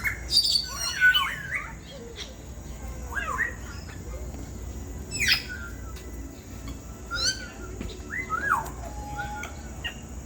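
African grey parrot calling: a run of short whistles and squawks that glide up and down in pitch, a burst of several near the start and then one every second or two.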